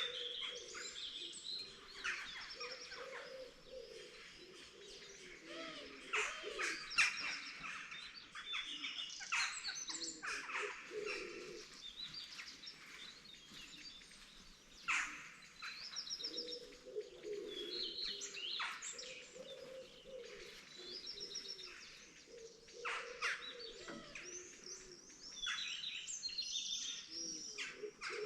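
Dawn chorus of several songbirds: overlapping chirps and quick trills, with lower warbling calls underneath.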